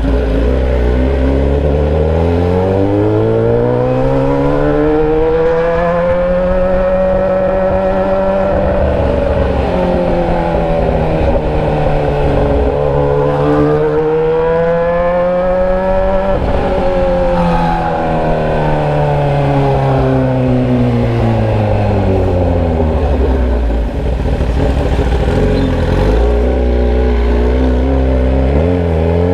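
Motorcycle engine running with the muffler removed, exhausting through a bare open pipe, loud and raw. Its pitch climbs and falls in long sweeps as the bike speeds up and slows, drops suddenly about midway, settles to a low steady note near the end, then climbs again.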